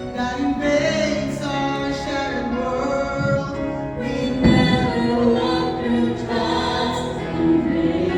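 Music: a choir singing held notes that change every second or so, with a low thump about halfway through.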